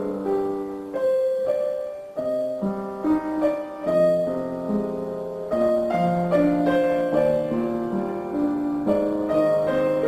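Background music played on piano: several notes at once, moving in a gentle melody.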